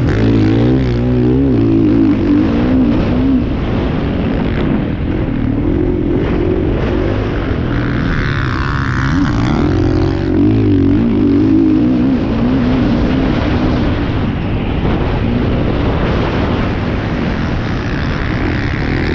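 Motocross bike engines revving continuously, their pitch repeatedly rising and falling as the throttle opens and closes.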